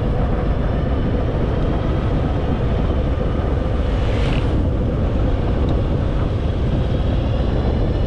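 Harley-Davidson Fat Boy's V-twin engine running steadily while being ridden, with wind rushing over the microphone and a brief hiss about four seconds in.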